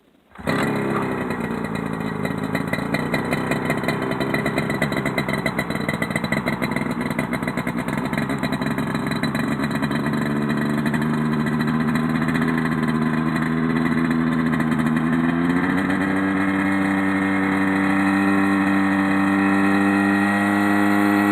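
Mosquito ultralight helicopter's Rotax 503 two-stroke twin running, starting abruptly about half a second in. Its pitch begins to climb about ten seconds in and steps up to a higher, steadier note about three-quarters of the way through as the engine speed rises.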